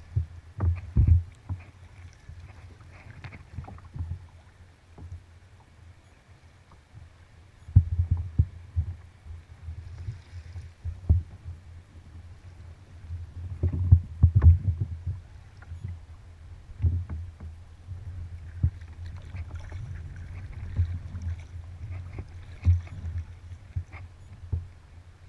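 Kayak being paddled on open water: irregular low knocks and splashes of the paddle and of water slapping against the hull, with a quieter spell partway through.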